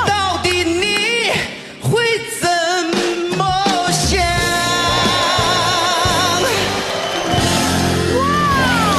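Male pop singer with a band behind him: a run of quick ornamented notes, then a long note held with vibrato, near the end of a Mandarin pop ballad.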